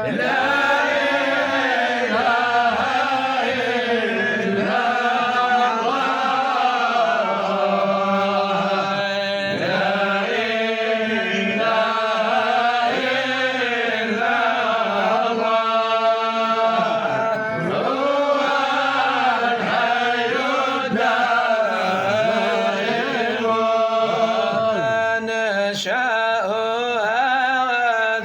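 Male voice chanting an Arabic Sufi devotional poem in long, ornamented melodic lines, with a steady low held tone underneath.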